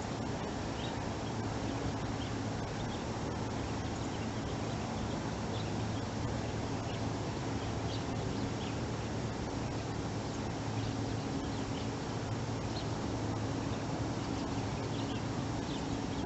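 Small birds chirping with short, high calls scattered throughout, over a steady low hum and background hiss.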